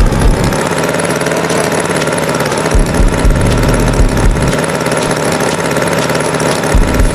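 Tractor engine running at idle, a steady mechanical drone with uneven low pulses.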